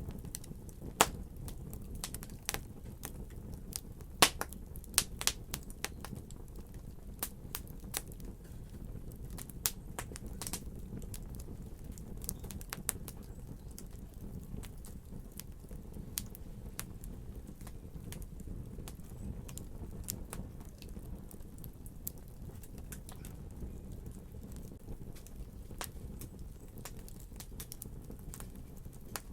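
Wood fire crackling: a steady low rumble of burning with irregular sharp pops and snaps, thick and loud in the first ten seconds or so, then fewer and fainter.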